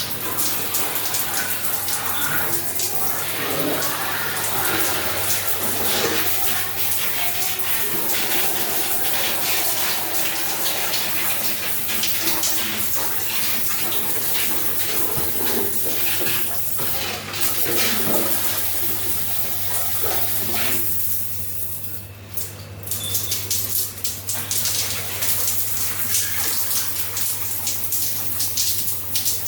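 Water running from a tap in a steady gush, with a low steady hum underneath. The water briefly drops off about two thirds of the way through, then comes back.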